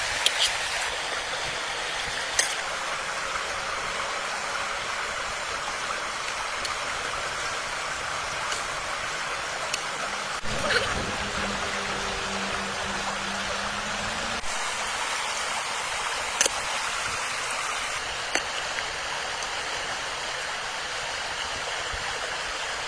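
Stream water rushing steadily, with a few sharp clicks scattered through it and a faint low steady tone coming in for a few seconds midway.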